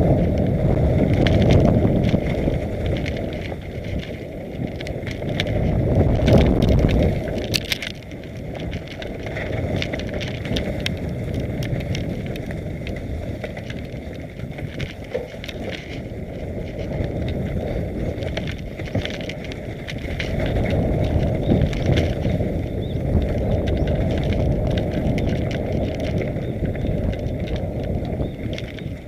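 Mountain bike riding down a rough trail: wind rushing over the microphone and the bike rattling over uneven ground. A few sharper knocks come around six to eight seconds in.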